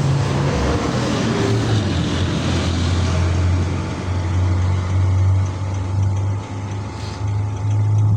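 Engine of a 2006 Jeep Liberty running at a steady idle, a low hum with some mechanical noise over it.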